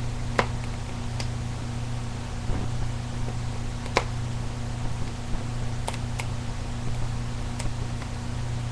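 Fire crackling: about half a dozen sharp pops scattered through, the loudest about four seconds in, over a steady hiss and low hum.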